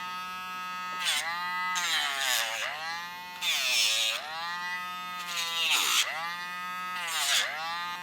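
Electric rotary nail grinder whining as it files a dog's nails. Each time it is pressed to a nail its pitch sags and a gritty hiss comes in, then the whine climbs back when it is lifted, again and again every second or two.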